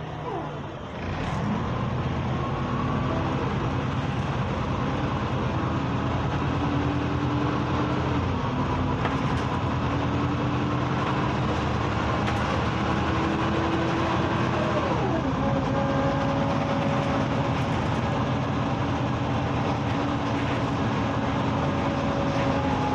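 Hyundai New Super Aerocity city bus engine heard from inside the bus as it accelerates, its note climbing steadily and dropping sharply at two gear changes, about a third of the way and two-thirds of the way in, over road noise.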